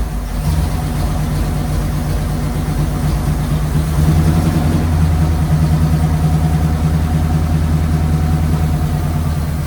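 Ford flathead V8 with Holley 94 carburetors idling steadily, a little louder from about four seconds in. It is running rich.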